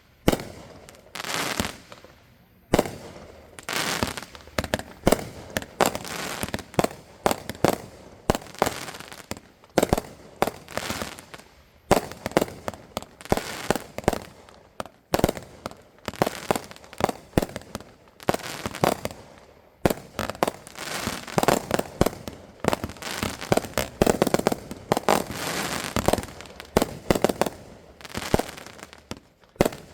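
Fireworks going off in quick succession: sharp bangs with crackling between them. They are spaced out in the first few seconds and come thick and fast from about twelve seconds in.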